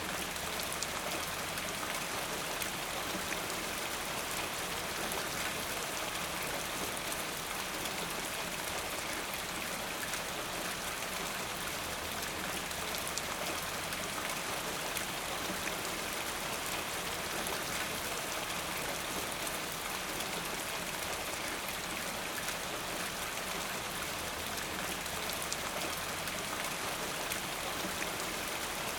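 Steady rain falling, with many separate drop impacts over an even hiss.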